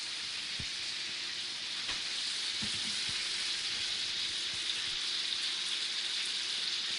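Chicken pieces frying in hot oil: a steady sizzle.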